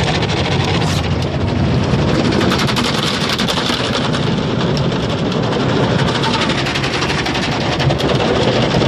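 Automatic car wash heard from inside the car: a loud, steady rush of water and wash equipment on the car's body, with a fast, continuous stream of hits over it.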